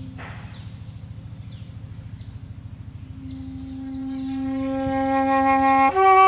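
Solo flute playing slow, sustained notes. A held low note ends with a breathy puff, and after a pause of about three seconds a low note comes back, swells louder and steps up to a higher note near the end.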